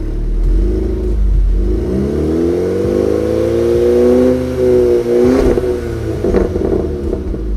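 Stage 3 tuned turbocharged Volkswagen Golf engine revved through its exhaust: a short blip, then a longer rev that climbs, holds for a few seconds and falls away, with a few sharp pops as the revs drop.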